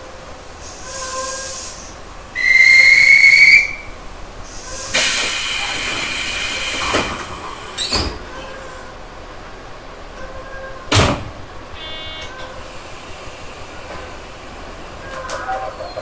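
Tobu 6050 series electric train standing at a station stop, heard from near the cab. A loud whistle blast of about a second comes first, then a loud rush of compressed air for about two seconds. Two sharp knocks follow, near the middle and a few seconds later.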